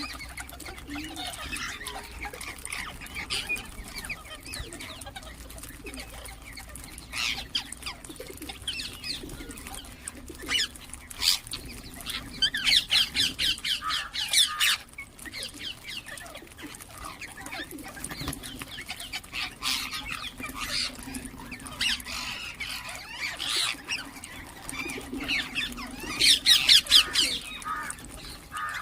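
Ringneck parrots chirping and squawking in quick runs of calls, the loudest runs about halfway through and near the end.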